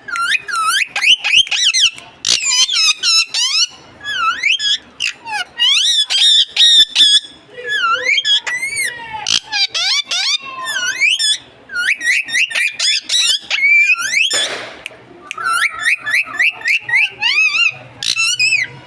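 Ringneck parakeet chattering and mimicking speech in a high, squeaky voice: quick runs of short wavering calls, with one harsh squawk about 14 seconds in.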